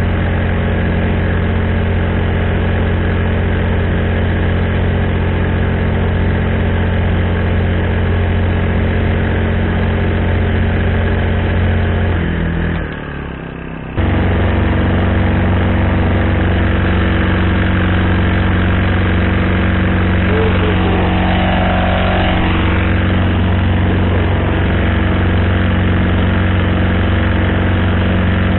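Honda GX35 35cc four-stroke engine running steadily at cruising throttle on a kayak. About twelve seconds in it drops to a lower, quieter note for a second or so, then comes back abruptly at full level and runs steadily again.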